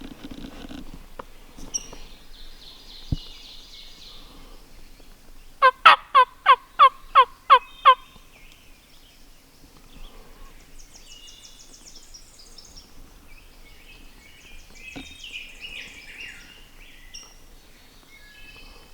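A run of about eight loud turkey yelps, evenly spaced over about two seconds, each note dropping in pitch. Songbirds chirp faintly before and after.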